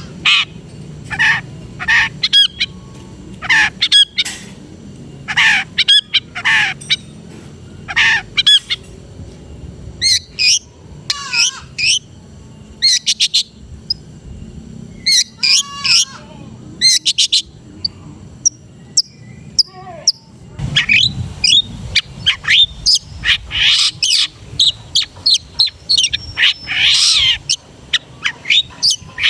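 Long-tailed shrike singing a loud, varied song of short sharp notes, gliding whistles and harsh chatter, mixed with mimicked calls of other birds. The notes come in irregular bursts, with a dense, rapid run of chatter about two-thirds of the way through.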